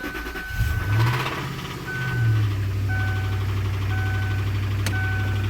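Lincoln LS car engine starting, flaring up in speed and settling to a steady idle about two seconds in; the owner is unsure whether the weird noise it makes is a rod knock or lifters. A dashboard warning chime beeps about once a second over it, with a single click near the end.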